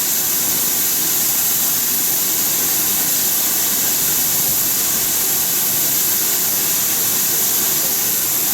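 Steam locomotive letting off steam: a loud, steady hiss that keeps up without a break.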